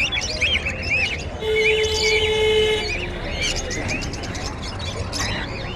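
Many small caged birds chirping and twittering at once, with short quick calls. About a second and a half in, a steady pitched tone sounds for about a second and a half over the chirping.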